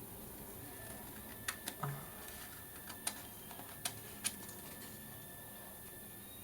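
Half a dozen light, sharp clicks and taps, spread irregularly over about three seconds, from craft tools and materials being handled on a worktable.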